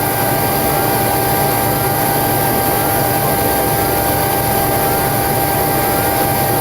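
Steady cockpit roar of air and engine noise with a constant whine, as the Boeing 727's number 3 Pratt & Whitney JT8D turbofan accelerates on its air starter during engine start. Faint rising chirps repeat a little under twice a second.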